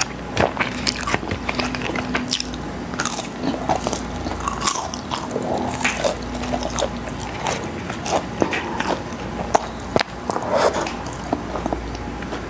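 Close-miked eating of crispy fried chicken: biting and chewing with many short, sharp crunches.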